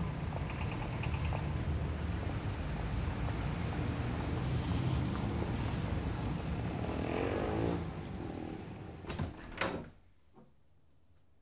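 Steady low rumbling ambience. Near the end a wooden door creaks open and its latch clicks a couple of times, then the sound cuts to near silence.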